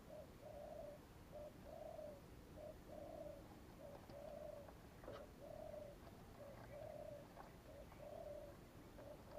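Spotted dove cooing over and over, faint, in a steady pattern of short and longer low coos, with a few faint ticks between them.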